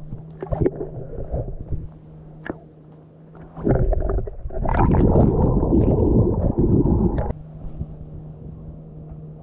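A steady low hum, broken from about three and a half to seven seconds in by loud wind buffeting the microphone, with a few sharp knocks in the first few seconds.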